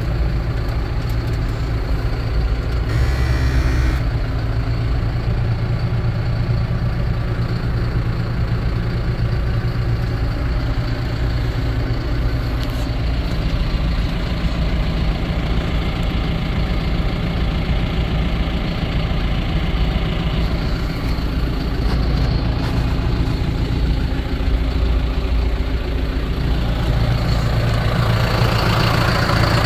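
2004 John Deere 6420 tractor's four-cylinder diesel engine running steadily, a little louder near the end.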